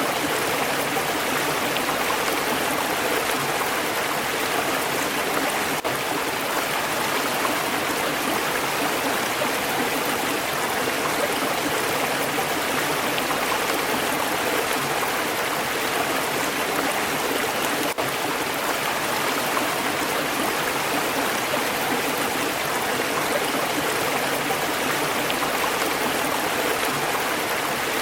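Stream water flowing steadily over stones in an even, unbroken rush.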